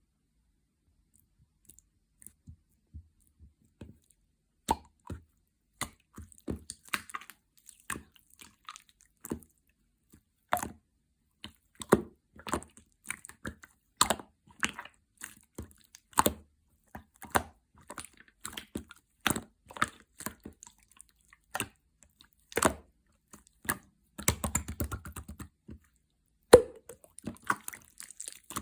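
Clear slime worked by hand, giving irregular sharp pops and clicks as air pockets burst, with wet plopping squishes. Near the end comes a brief spell of rapid crackling.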